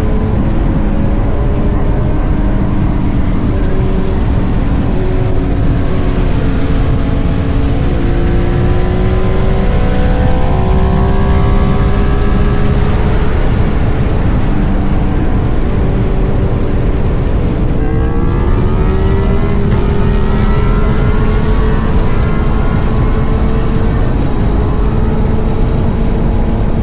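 Motorcycle engine running under way with heavy wind rush. Its pitch climbs several times as it accelerates, with a short break about two-thirds through and then another climb, like a gear change.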